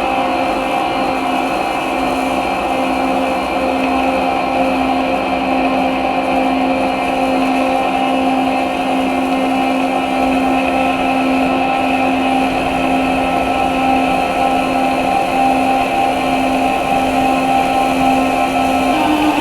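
Electric toothbrush motors buzzing, fed through a Boss RV-6 pedal's delay into a dense, sustained drone with a steady low hum and layered tones above it. At the very end the pitch begins to climb.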